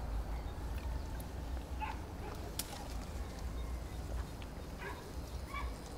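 A few faint, short bird calls over a steady low rumble.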